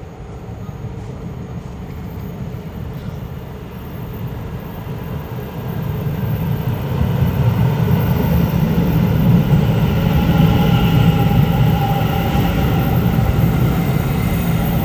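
A passenger train pulling into a station. A low rumble grows louder over the first half and then holds steady, with several steady high whining tones joining about halfway through.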